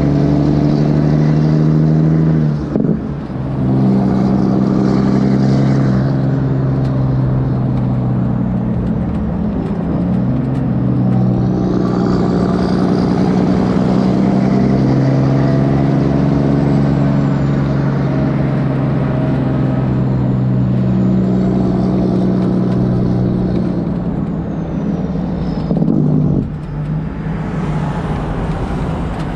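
Kenworth W900's straight-piped diesel engine running loud and steady, its exhaust note breaking off briefly twice, about three seconds in and near the end before picking up again.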